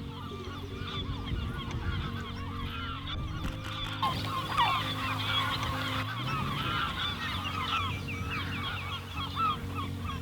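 A large flock of birds calling continuously, many short calls overlapping, over steady low held tones.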